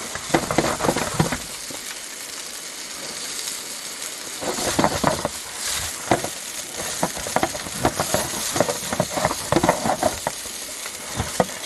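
Hamburgers and hot dogs frying on a camp burner stove: a steady sizzling hiss with irregular crackling pops, which come thickest in the first second and again through the second half.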